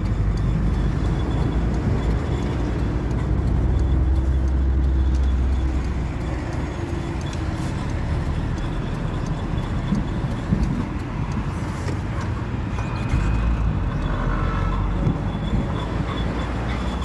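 Renault Clio being driven: steady road and running noise with a metallic squeaking from the front brake pads, a few brief higher squeals near the end. The pads are the cause of the noise from under the car, as is typical of freshly changed pads.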